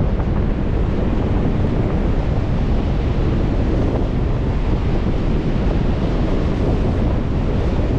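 Wind buffeting the microphone over the steady rush of Lake Michigan waves, a loud, even roar with no separate events.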